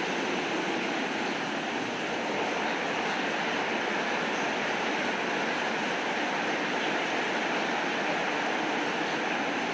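Steady rainfall, an even unbroken hiss with no change in strength.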